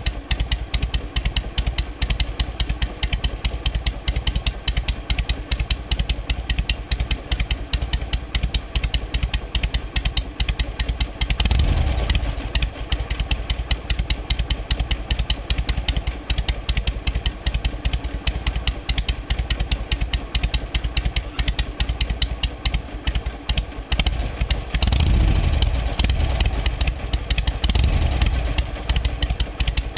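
Harley-Davidson Sportster 883R's carbureted air-cooled V-twin, on a Twin Tec TC88A ignition, idling in a loping three-beat rhythm through a US-spec muffler with its baffle punched out to 15 mm, a dry, powerful sound. The engine is nearly cold. Its throttle is blipped briefly about twelve seconds in and twice more near the end.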